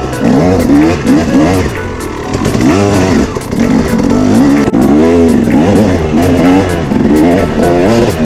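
450cc four-stroke motocross bike engine revving, its pitch rising and falling in repeated quick blips.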